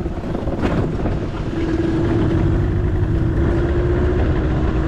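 Outboard motor of a small fishing boat running under way, a steady hum holding one pitch, mixed with wind rush. A brief splash-like burst comes under a second in.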